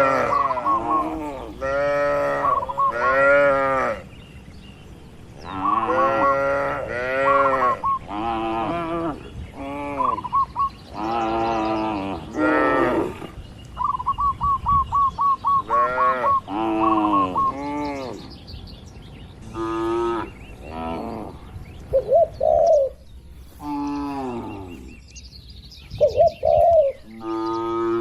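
Cattle mooing again and again, one long call after another with short gaps, some overlapping. A small bird's quick chirping trill comes in between the moos now and then.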